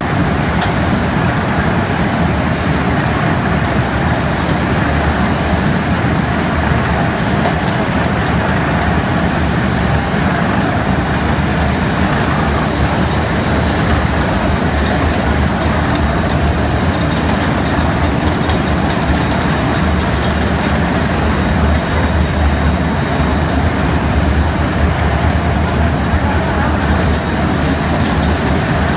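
Oil expeller (screw-press oil mill machine) running steadily, a continuous loud mechanical drone with a deep low rumble.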